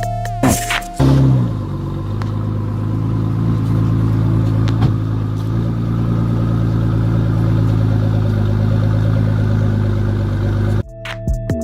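A car engine idling steadily, its pitch falling and settling about a second in as a brief rev dies down.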